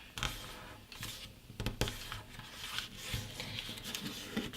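A sheet of printer paper rustling and rubbing as fingers fold it and flatten and crease the folds, with scattered small ticks and scrapes.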